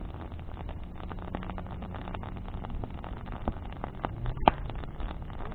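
Bonfire of burning branches crackling, with many small sharp pops and one loud snap about four and a half seconds in, over a low steady rumble.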